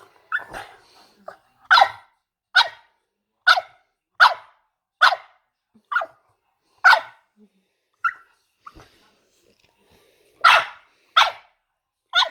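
A bulldog giving short, sharp squealing barks, about one a second and about a dozen in all, with a short pause about two-thirds of the way through.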